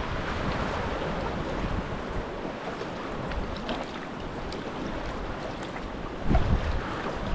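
Wind blowing over the microphone with the sea washing around a kayak, a steady rushing noise; a stronger gust buffets the microphone about six seconds in.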